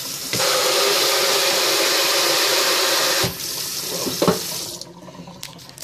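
Double-handled Moen kitchen faucet running water into the sink. The flow comes on abruptly just after the start, drops to a weaker stream a little past three seconds in, and stops near the end.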